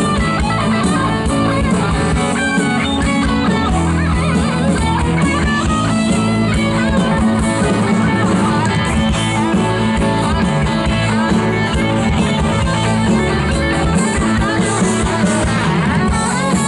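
Live rock band playing an instrumental passage with guitar to the fore.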